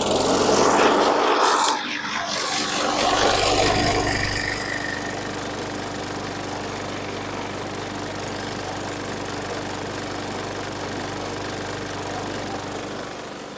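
Briggs & Stratton 450E single-cylinder engine on a push mower, just started and running. It is loud for the first couple of seconds, surges again around three to four seconds in, then settles into a steady run. It starts once the brake-bail linkage is moved off its ground tab, which was the cause of the no-start.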